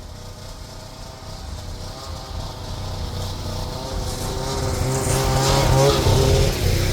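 Two-stroke Arctic Cat snowmobile engine running under throttle as the sled pulls away, growing steadily louder, with a brief climb in pitch about five to six seconds in.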